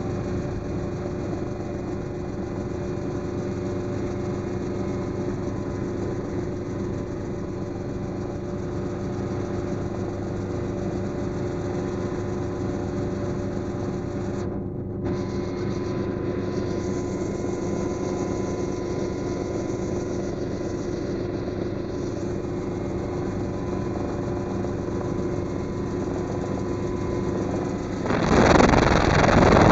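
Helicopter engine and rotor running steadily in flight. About 28 s in, a sudden loud rush of wind noise on the microphone takes over.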